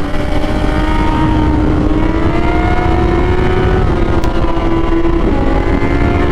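Kawasaki Z800 sportbike's inline-four engine held at high revs under hard acceleration, its pitch climbing slowly. The pitch dips briefly about five seconds in at an upshift, then climbs again, over a heavy rumble of wind rush.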